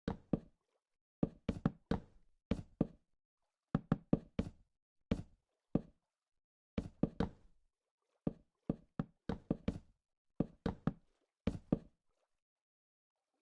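A series of sharp knocks, coming in irregular groups of two to four with short silent gaps between groups.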